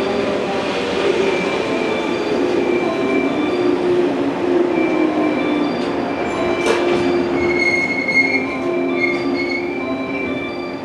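Electric local train pulling slowly into the platform to stop, its wheels rolling under a brake squeal in several steady pitches. A short sharp hiss comes about seven seconds in.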